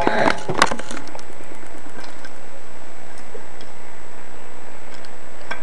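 Hard plastic parts of a Transformers action figure clicking and tapping as they are handled and tabbed together: a quick cluster of clicks in the first second, then sparse faint ticks over a steady hiss.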